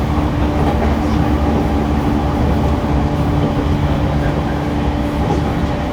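Running sound inside an E231-1000 series electric commuter train car: a steady rumble of wheels on rail with a level motor hum, at even speed.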